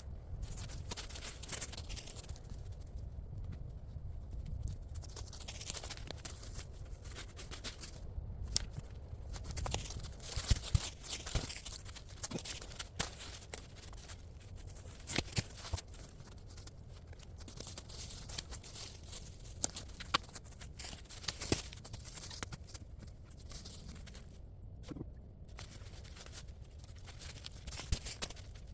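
Irregular rustling and crackling with scattered sharp clicks and snaps over a steady low rumble.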